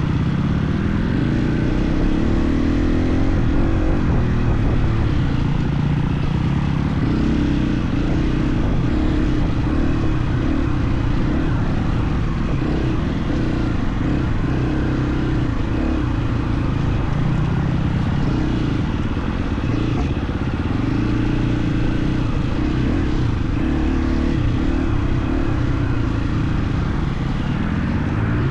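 KTM 350 XC-F's four-stroke single-cylinder dirt bike engine running under load, its revs rising and falling again and again as the throttle is worked.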